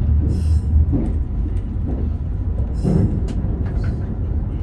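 Meitetsu Panorama Super limited express train running along the line, a steady low rumble with a few short hissing bursts, about half a second in and again about three seconds in.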